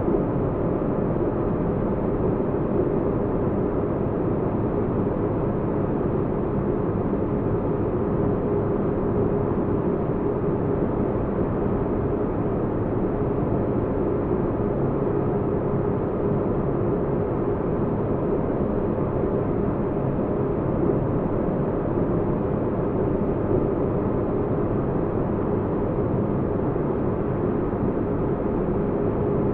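Synthetic spaceship-interior ambience: a steady low rumble with a faint constant hum, made as deep-bass white noise for sleep.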